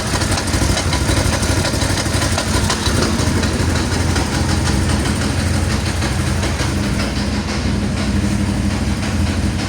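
The 1000 cc engine of a six-seat four-wheel-drive excursion buggy running steadily at idle, with a constant low hum.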